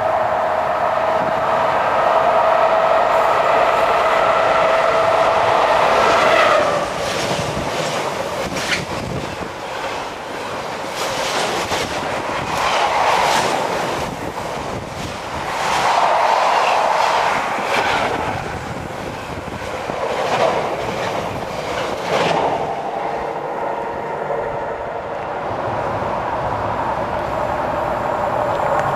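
Container freight train passing close by: a steady high tone as it approaches, then from about six seconds in a loud rush of wagons with the wheels clattering over the rail joints in repeated beats, easing off after about twenty seconds.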